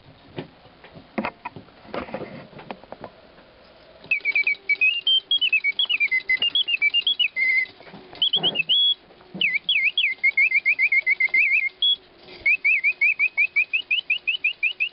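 Griesbaum singing-bird mechanism whistling birdsong through its bellows: rapid chirps, trills and sliding whistles, broken by short pauses, over a faint steady hum. A few clicks and knocks come first, and the song starts about four seconds in.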